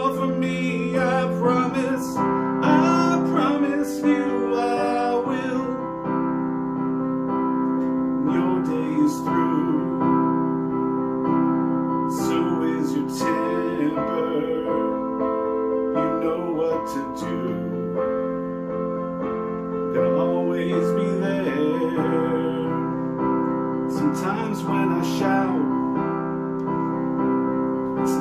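Piano playing a slow pop ballad, with sustained chords and a melody over them.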